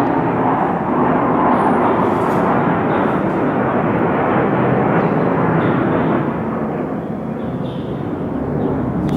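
A US military fighter jet's tremendous roar, loud and steady as it flies low overhead, easing a little about six seconds in and building again near the end.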